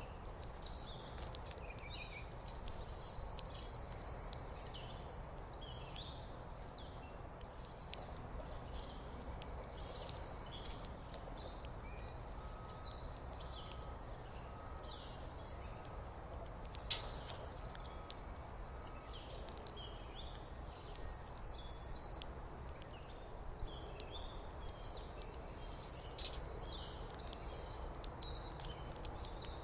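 Small birds chirping and twittering in quick, repeated short notes, over a steady low background rumble, with one sharp click about halfway through.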